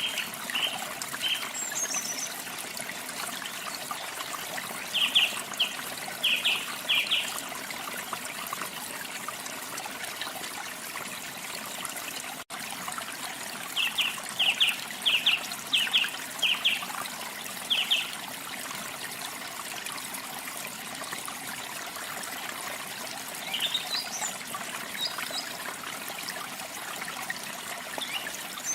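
Steady trickling water, with birds singing over it: two runs of short, loud repeated notes, one about five seconds in and another about fourteen seconds in, and fainter higher chirps near the start and end. The sound drops out for a split second about halfway through.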